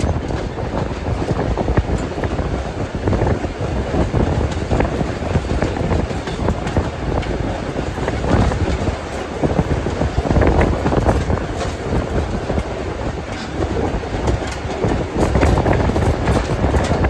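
Steam-hauled passenger train running along the line: a steady rumble with irregular clicking and clatter from the wheels on the rails.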